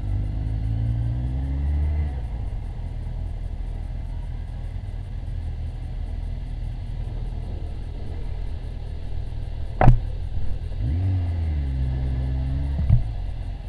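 Motorcycle engine heard from the rider's own bike, a Yamaha FJR1300 inline-four. It pulls and eases off in the first two seconds, runs low while the bike rolls, then pulls again from about eleven seconds and eases off just before the end, all over a steady low rumble. A sharp knock comes about ten seconds in, with a smaller one just before the engine eases off at the end.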